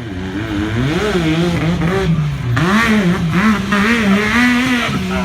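Side-by-side UTV engine revving, its pitch climbing and dropping repeatedly with the throttle.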